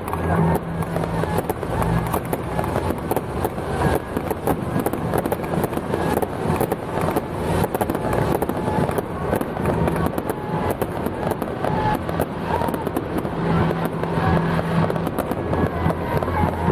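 Firecrackers going off in a rapid, unbroken string of sharp pops and crackles, over a low steady hum that comes and goes.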